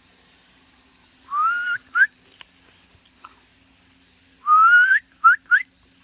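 A person whistling to call a dog: a rising whistle and a short upward chirp, then about three seconds later a longer rising whistle followed by two quick upward chirps.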